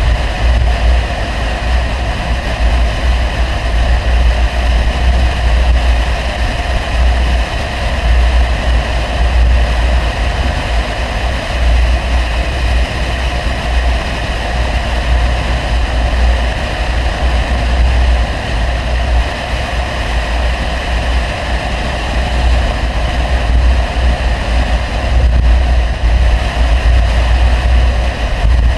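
Audi 100 2.3 quattro's five-cylinder engine and CAC exhaust at a steady cruise, heard from inside the car as a deep, steady drone without revving.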